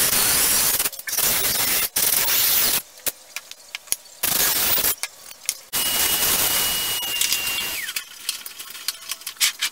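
Handheld power tool working wood in short bursts: about five runs of a second or so, switched on and off with brief pauses, the longest near the middle lasting about two seconds with a steady high whine that drops as the tool stops.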